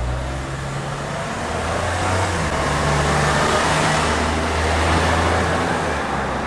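Suzuki Jimny JB64W driven at low speed on its stock (factory) exhaust: the 660 cc turbocharged three-cylinder gives a steady low drone over a broad hiss. It grows louder toward the middle and eases a little near the end.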